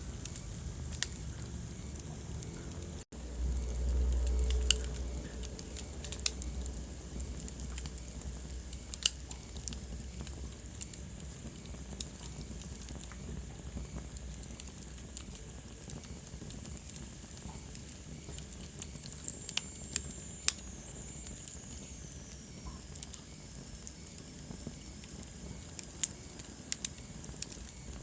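Wood fire crackling in a fireplace: a steady soft hiss with irregular sharp pops and snaps. A short low rumble comes about three seconds in, and a faint high whistle falls in pitch about twenty seconds in.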